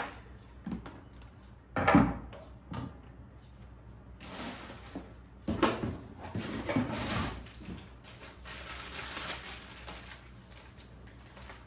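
Mixer-grinder jars, lids and packaging being handled: a knock about two seconds in, then rustling and light clattering as parts are unpacked and set down.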